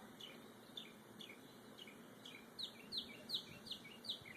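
A bird singing a fast series of short down-slurred chirps, about three a second, faint at first and louder from about halfway through.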